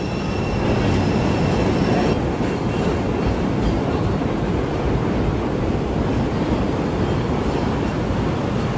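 Chicago "L" rapid-transit train running, a steady loud rumble of wheels on rail. A thin high whine sounds over it and stops about two seconds in.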